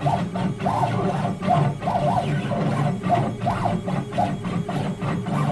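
CNC router's stepper motors whining as the gantry drags the knife through foam board, the pitch rising and falling over and over with each short move, over a steady low hum.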